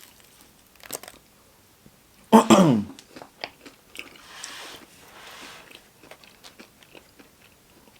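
Close-up chewing and biting of Popeyes fried food, with small crunches and wet mouth clicks. About two and a half seconds in, a short, loud vocal sound with falling pitch, and a soft hiss of breath a couple of seconds later.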